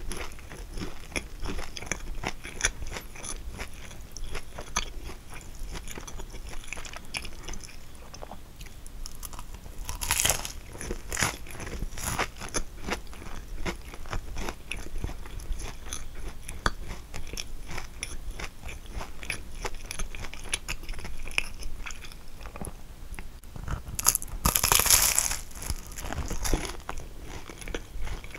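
Close-miked chewing and biting of kouign-amann, a crisp caramelized pastry, crunching and crackling throughout. There are two louder crunchy bursts, about ten seconds in and a few seconds before the end.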